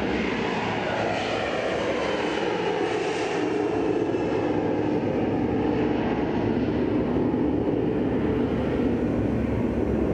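A loud, steady engine-like drone whose pitch slides down over the first few seconds, then holds.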